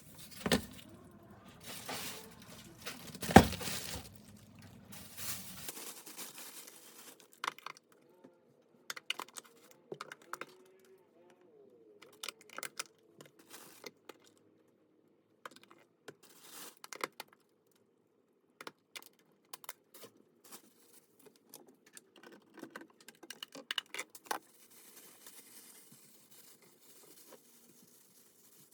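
Scattered clicks, clinks and rustles of objects being handled, with one sharp knock about three seconds in.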